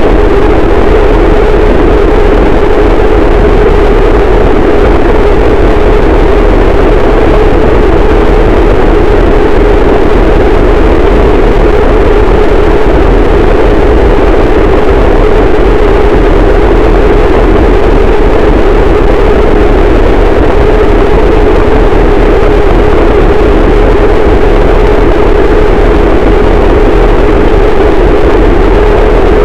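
Harsh noise wall: a static, heavily distorted wall of dense noise at full loudness that never changes, centred on a low-mid roar around a few hundred hertz with a deep rumble beneath.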